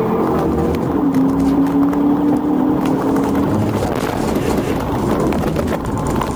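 Police cruiser's engine running hard in a high-speed pursuit, a steady drone over heavy wind and road noise, its note dropping away about three and a half seconds in and leaving the rushing road noise.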